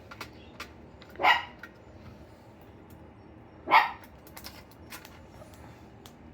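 Two short, sharp animal calls, about two and a half seconds apart, over a quiet room.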